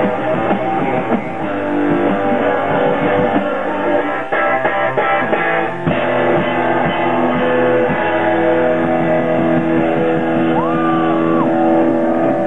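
Rock band playing live, guitar-led, in a dull, low-bandwidth recording.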